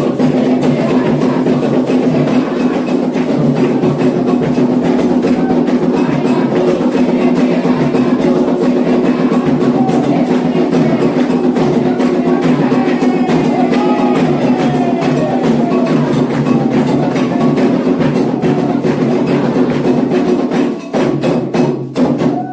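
Candomblé atabaque drums playing a fast, steady ritual rhythm, the rum for Ogum, with sharp struck-bell or wood-like accents over it; the drumming breaks off near the end.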